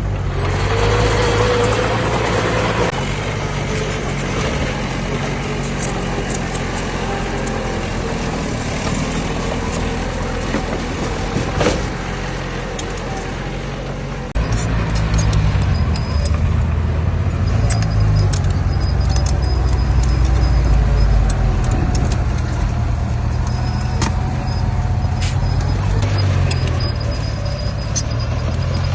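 Heavy diesel earthmoving machinery running, its engine note rising and falling under load, with faint knocks and clanks. The engine sound jumps louder about halfway through.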